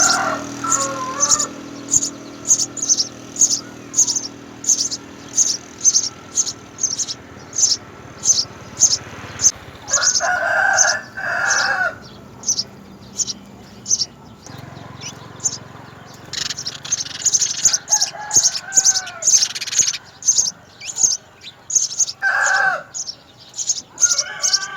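House sparrows chirping at the nest: short, high chirps repeated about twice a second without a break. Three times, a longer, lower call from another bird sounds over them.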